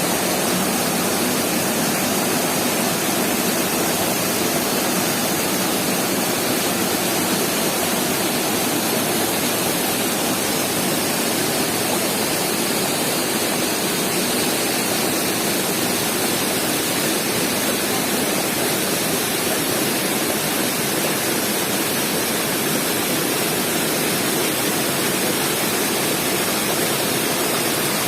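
Steady roar of rushing water from a mountain waterfall, loud and even throughout.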